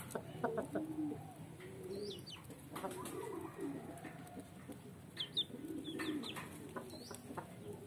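Birds calling: low cooing calls over and over, with a few short high chirps. A brief flutter of wings about six seconds in, as the young chicken on the ground flails.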